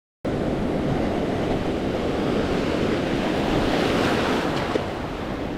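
Small ocean waves breaking and washing up the beach, heard as a steady rush of surf, with wind rumbling on the microphone. The sound starts abruptly just after the beginning, out of silence.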